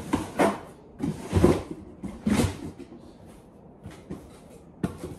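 A handful of separate knocks, bumps and rustles from things being handled and set in place, the loudest about a second and a half in.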